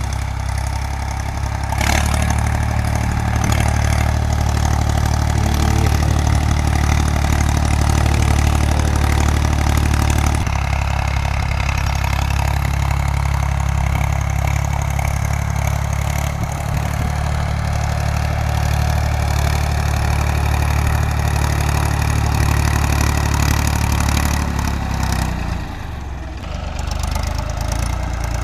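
Powertrac Euro 50 tractor's diesel engine running steadily while pulling a harrow through a field. The engine note softens briefly near the end, then picks up again.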